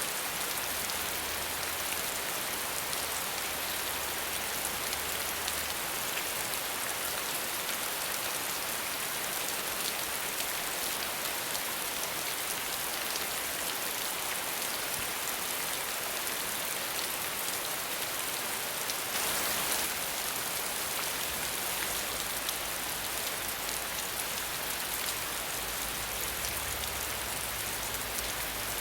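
Steady rain falling with no thunder: an even hiss of drops, briefly a little heavier about two-thirds of the way in.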